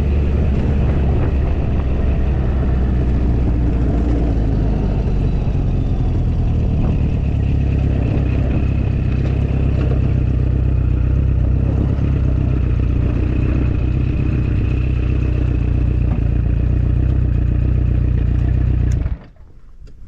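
Motorcycle engine idling at a steady, unchanging pitch, stopping abruptly about a second before the end.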